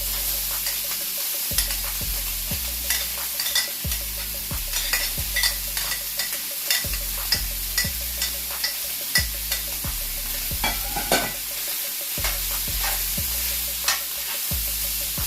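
Sausage and diced vegetables sizzling in hot oil in a cast iron skillet, with a steady hiss. A utensil clicks and scrapes against the pan again and again as they are stirred.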